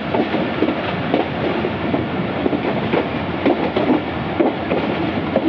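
Passenger train heard from on board as it runs at reduced speed: a steady running rumble with frequent irregular clacks and rattles of wheels over the rail joints.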